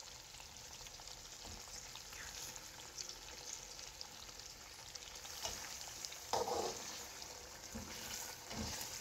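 Faint sizzling of diced capsicum, carrot and onion frying in a tomato masala in a wok. A metal slotted spatula stirs and scrapes through them a couple of times in the second half, the clearest about six seconds in.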